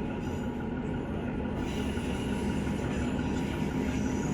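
Northern Class 150 diesel train running along the line: a steady low drone with wheel-on-rail rumble. A brighter rushing noise picks up about a second and a half in.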